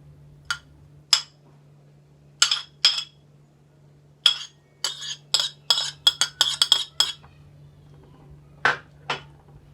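Sharp clinks of a kitchen utensil tapping against dishware while chopped sweet pepper is added: a few single clinks, then a quick run of taps around the middle, and two more near the end. A steady low hum runs underneath.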